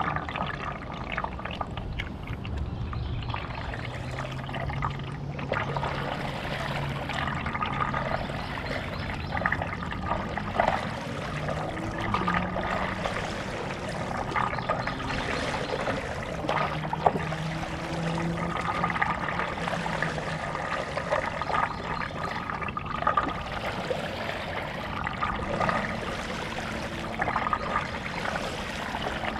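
Stand-up paddleboard paddle dipping and pulling through lake water, with steady trickling and splashing of water close by. A faint low hum sits underneath.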